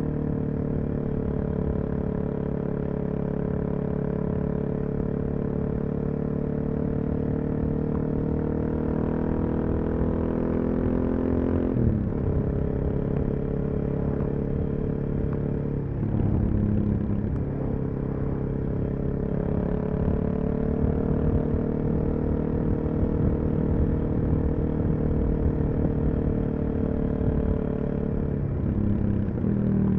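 Suzuki DR-Z400SM's single-cylinder four-stroke engine through a full Yoshimura exhaust, running steadily under way. The pitch climbs slowly, then the engine note drops sharply about twelve seconds in, with further brief dips a few seconds later and near the end.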